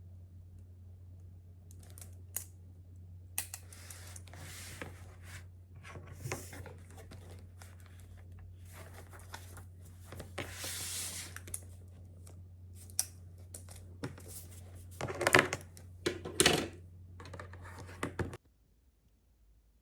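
Small objects being handled: scattered clicks and rustling or crinkling, with two louder rustles near the end, over a steady low hum that cuts off suddenly.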